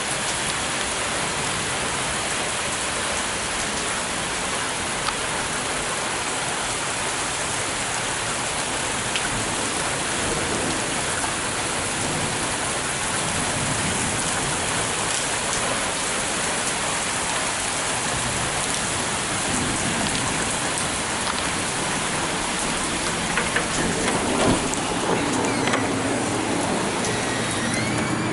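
Heavy rain falling steadily, with a few light ticks or drips near the end.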